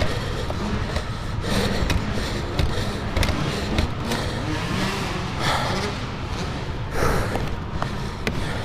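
Dirt bike engine running under a steady rush of wind noise, with several short gusts.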